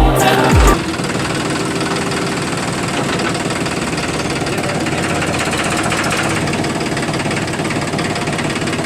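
Small electric motor of a homemade water-pump tractor model running steadily.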